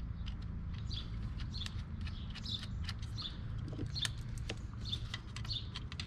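Small birds chirping over and over, with light clicks of a screwdriver working a plastic electrical connector clip, over a steady low rumble.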